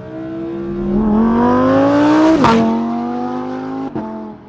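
Lamborghini Huracán EVO's 5.2-litre V10 on a kick-down in Strada mode. About a second in the engine gets louder and its revs climb steeply. About two and a half seconds in the pitch drops sharply at an upshift, then runs on more steadily, with a brief dip near the end.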